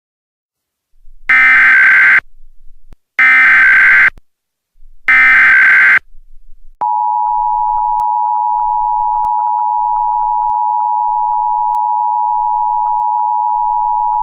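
Emergency Alert System signal: three short harsh data bursts of the digital SAME header about two seconds apart, then the steady two-tone EAS attention signal starting about seven seconds in.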